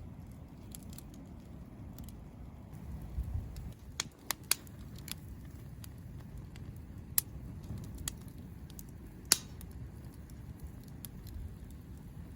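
Wood campfire crackling: scattered sharp pops and snaps, a quick cluster about four seconds in and the loudest near the end, over a steady low rumble.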